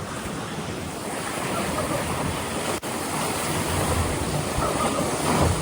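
Rushing, churning water of a river-rapids raft ride, with wind buffeting the microphone. The noise grows slowly louder and cuts out for an instant near the middle.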